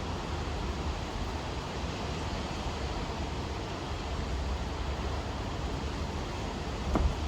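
Steady rain falling: an even hiss with a low rumble underneath, and one sharper tap just before the end.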